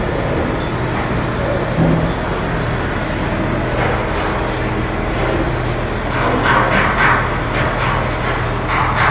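A steady low machinery drone with a constant hum, with a few brief louder noises about two-thirds of the way through.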